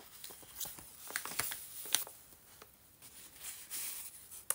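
Paper rustling and light tapping as the pages and a paper tag of a handmade journal are handled, with a sharp click near the end.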